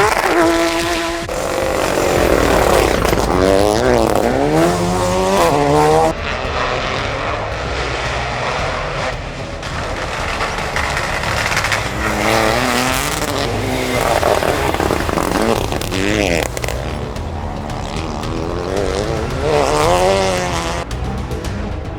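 Rally car engines at full throttle in several short clips, the engine pitch climbing and dropping again and again through gearshifts.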